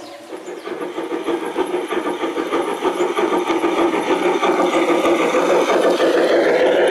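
G scale model train running on garden railway track, the motor whirring and the wheels clicking quickly over the rails, growing steadily louder as it approaches.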